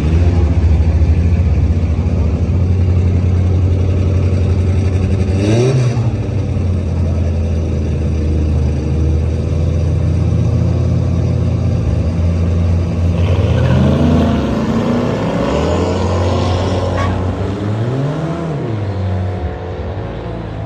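2011 Camaro SS's 6.2-litre V8, breathing through a cold air intake and Borla cat-back exhaust, idling at the drag-strip start line with a quick rev about five seconds in. About two-thirds of the way through it launches hard alongside a Corvette: revs climb and drop back at several upshifts as the cars pull away down the track.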